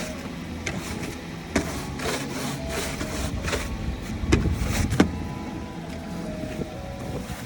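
Snow brush sweeping snow off a car in a series of short strokes, over the steady hum of the car's engine idling to warm up.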